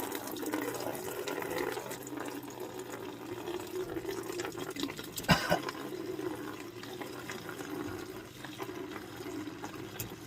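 Old gasoline running in a steady stream from the freed-up drain of a long-abandoned fuel tank into a bucket. A single sharp knock about five seconds in.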